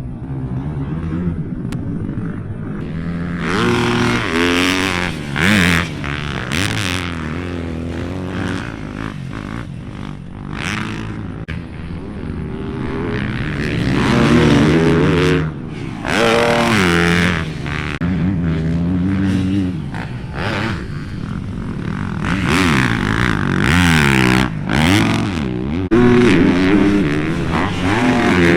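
Motocross dirt bike engines revving hard and falling off again and again, the pitch climbing and dropping with throttle and gear changes as bikes ride the track.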